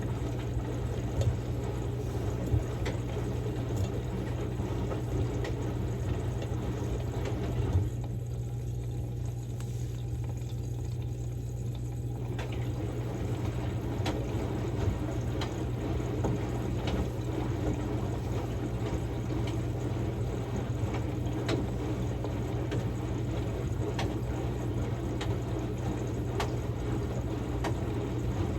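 Samsung Grande washing machine running a quick-wash cycle with a padded jacket inside: steady motor hum with water sloshing in the turning drum. The sloshing drops away for about four seconds, starting roughly eight seconds in, then resumes.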